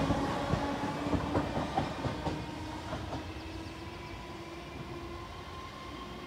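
Southern electric multiple unit moving away, its wheels clicking over rail joints and the level crossing in the first few seconds over a faint steady motor tone and a rumble. The sound fades steadily as the train recedes.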